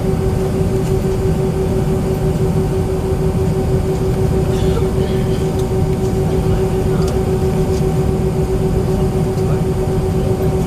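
Cabin noise inside an Airbus A319 with its IAE V2500 jet engines running: a steady rumble with a constant tone in it, unchanging throughout.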